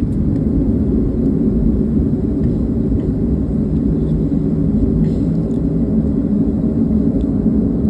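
Steady low drone of an airliner's jet engines and rushing air heard inside the passenger cabin during takeoff, with a faint steady hum running through it.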